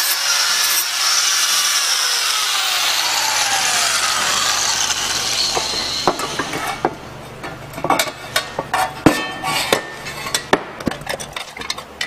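A power tool grinding and smoothing the edges of a metal exhaust tip: a steady, harsh rasp that dies away about six seconds in. Then come a string of sharp metallic taps and clinks as the part is handled.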